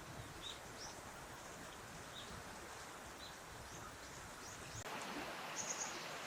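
Small birds giving brief, high chirps scattered through a steady outdoor background hiss. About five seconds in, the background changes to a fuller, steady rushing hiss, with one short, high call soon after.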